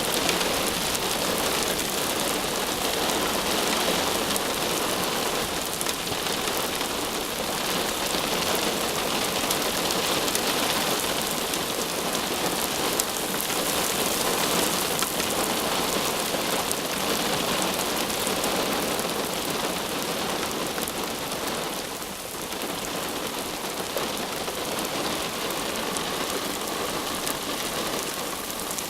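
Heavy thunderstorm rain pouring down steadily, a dense hiss of drops on hard surfaces, easing slightly about two-thirds of the way through.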